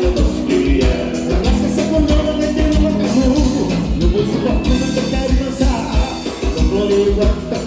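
Live gaúcho dance-band music led by accordion, with a steady bass-drum beat.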